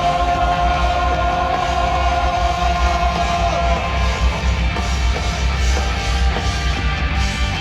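Live rock band playing an instrumental passage, guitars over a drum kit, with no singing. A long held note carries through the first half and fades out about three and a half seconds in.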